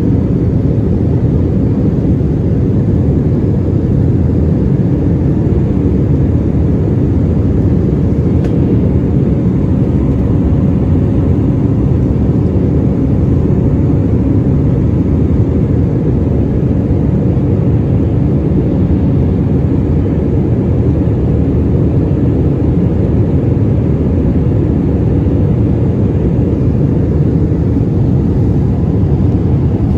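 Airbus A319 cabin noise in flight: a steady low roar of engines and airflow, with a faint steady hum above it.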